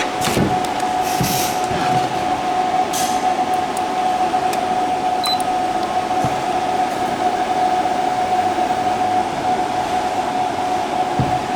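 Electric cooling fans running: a steady whir with a single held tone, and a few brief clicks in the first three seconds.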